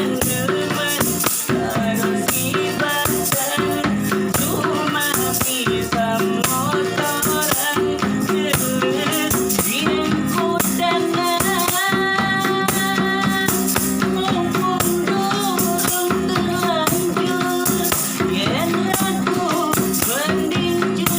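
A busker's song: strummed guitar and a steady shaker rattle keeping the beat, with a voice singing the melody.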